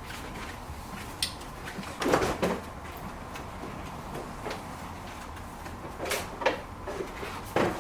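Irregular knocks, clicks and rattles of hands working on a car's front-end parts, with a cluster of handling noises about two seconds in and more near the end.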